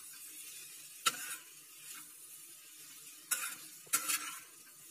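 Spiced potato samosa filling sizzling in oil in a frying pan, with a few sharp scrapes and clinks as a metal spatula stirs it against the pan.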